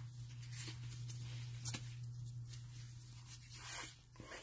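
Trading cards being handled and slid against one another: a few faint, short rustles and clicks over a steady low hum.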